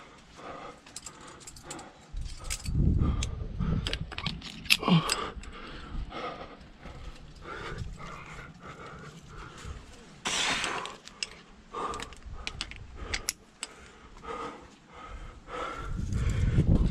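A climber breathing hard while moving up a rock chimney, with irregular scrapes of body and shoes on rock and small clinks of climbing gear.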